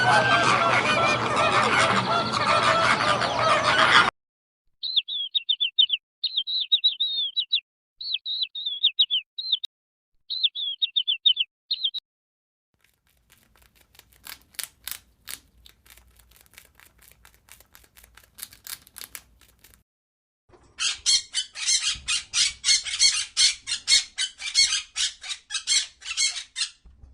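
Birds calling. A dense flock of honking fowl is heard first, cutting off after about four seconds. Then come short bursts of high chirping, then faint clicks. Near the end there is a loud, fast, rhythmic rasping sound.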